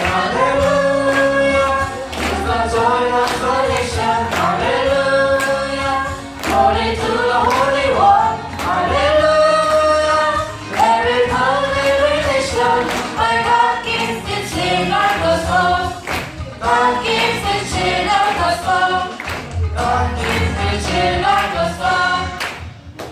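A youth choir singing a Christian worship song together, with instrumental accompaniment and a steady beat. The music stops right at the end.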